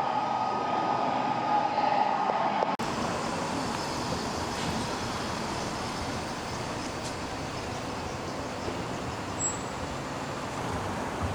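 Steady vehicle noise with a held tone, cutting off abruptly about three seconds in to an even, featureless noise.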